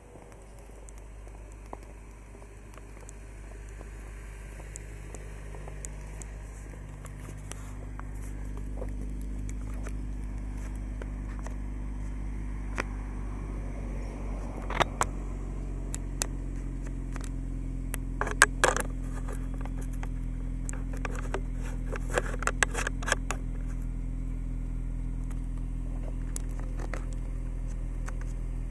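Car engine running steadily, a low hum that builds over the first several seconds and then holds, heard through a camera on a vehicle mount. Scattered sharp clicks and knocks, several in quick clusters, come from the mount and camera.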